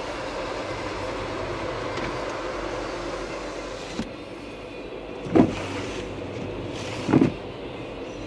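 Freight train of autorack cars rolling past, a steady rumble heard from inside a car. About four seconds in there is a click and the sound turns duller, and then come two loud short thumps a little under two seconds apart.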